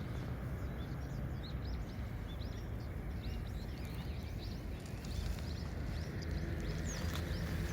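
Small birds chirping repeatedly, many short high calls a second that grow busier partway through, over a steady low rushing noise.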